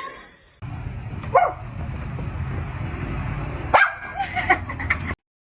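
A dog gives a short bark about a second in, then a quick run of barks and yips near the end, over a steady background noise.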